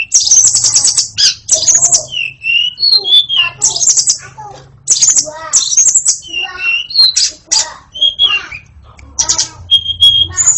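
White-rumped shama (murai batu) singing loudly: clear whistled notes that slide up and down, mixed with harsh, rapid chattering phrases, with short pauses between phrases.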